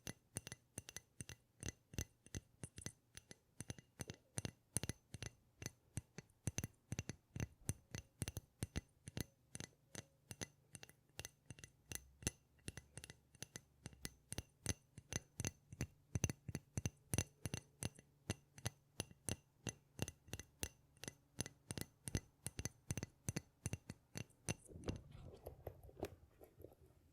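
Rapid, even tapping on a glass object, about three to four light clinking taps a second, each with a brief high ring. The tapping stops near the end.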